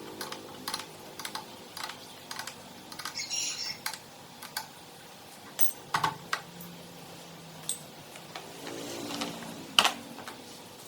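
Irregular light clicks and taps of hard objects being handled, a few at a time, with one sharper click near the end.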